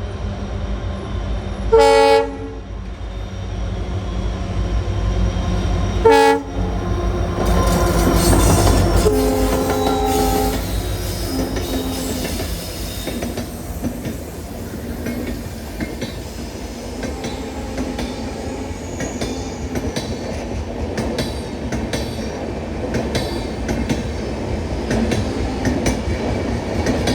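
A passing train: its horn sounds two short blasts about four seconds apart, followed by a longer steady tone. The wheels then clatter rhythmically over rail joints and points, a sound called "musical track sounds".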